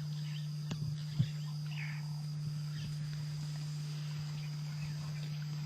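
Steady outdoor ambience: a constant low hum and a high steady insect trill, with two faint clicks about a second in.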